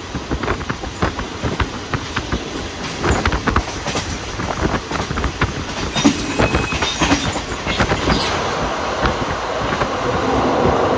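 Passenger train running, heard from aboard: wheels clattering over the rails with irregular knocks and rattles of the carriage, and a brief high wheel squeal a little past halfway.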